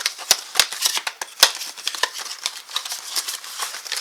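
Packaging being handled while parts are taken out of a box: a dense run of crinkles and clicks, with a few sharper knocks in the first second and a half.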